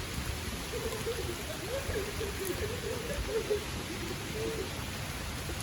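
Steady hiss of light rain falling on leaves and the ground. Faint distant voices waver through the middle of it.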